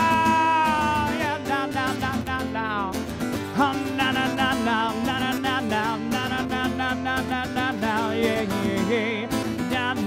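Live band playing an instrumental passage: a lead guitar holds a long note, then plays a run of bent and wavering notes over the band's steady backing.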